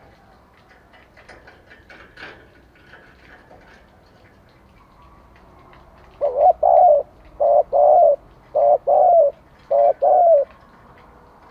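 Spotted dove cooing: four phrases about a second apart, each a short note followed by a longer one, starting about six seconds in. Faint scattered clicks come before the cooing.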